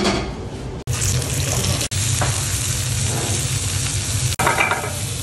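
Halved artichokes frying in oil in a pan, a steady sizzle that cuts off abruptly for an instant a few times.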